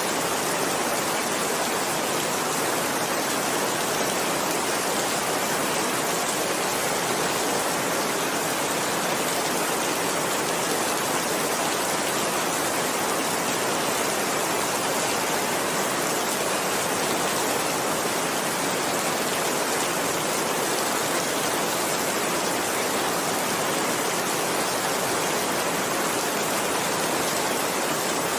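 Steady heavy rain: a dense, even hiss of rainfall with no distinct drops or thunder.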